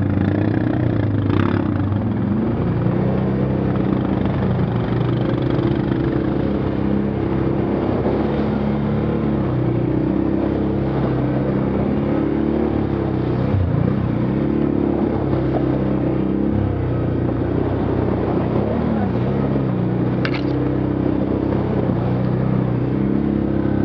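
An off-road vehicle's engine running under load, its pitch rising and falling again and again as it drives through mud. There are a couple of brief clicks or clanks.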